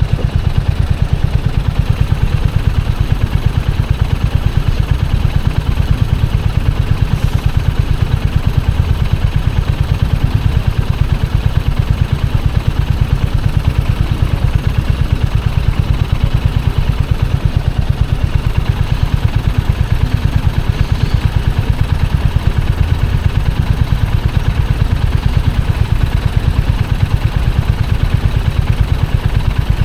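Royal Enfield Hunter 350's single-cylinder 349 cc engine running steadily, a fast, even exhaust thump with no revving up or down.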